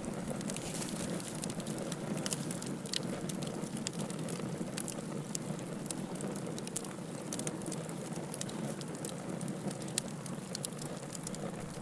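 Wood fire burning in a fireplace: a steady low rush of flame with frequent irregular crackles and pops from the burning firewood, one sharper pop about ten seconds in.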